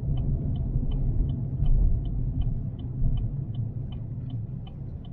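Steady low road rumble inside a moving car's cabin, with a turn-signal indicator ticking evenly about three times a second while the car changes lanes.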